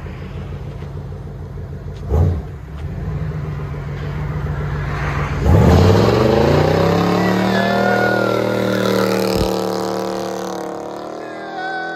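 1984 Corvette C4's 5.7-litre Cross-Fire V8 through true dual exhaust with high-flow cats and Flowmaster Outlaw mufflers: it idles with a short blip about two seconds in. At about five and a half seconds it revs up, rising in pitch, then holds as the car pulls away and the sound slowly fades.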